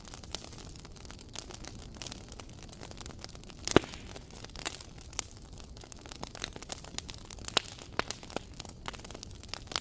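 Wood fire crackling in a fireplace: irregular sharp pops and snaps over a low steady rumble, with one loud pop a little under four seconds in.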